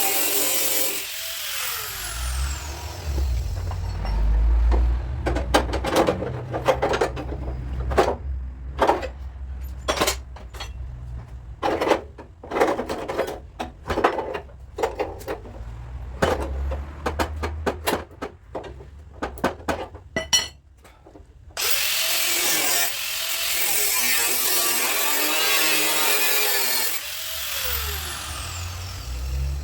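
A power tool runs and winds down. Then come many irregular sharp metallic knocks over a low hum, then the power tool runs again for several seconds and winds down.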